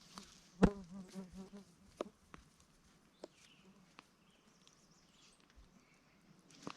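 Flies buzzing close to the microphone, a pulsing buzz that comes and goes. A sharp click comes just under a second in and is the loudest sound, followed by a few fainter clicks over the next few seconds.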